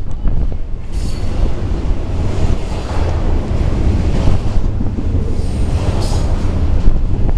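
BNSF double-stack container train passing close at speed: a loud, steady rumble of wheels on rail, with wind buffeting the microphone.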